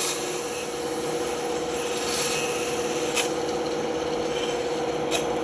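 Band saw running with a steady hum while its blade cuts through wood, with a rasping hiss over it and two short ticks about three and five seconds in.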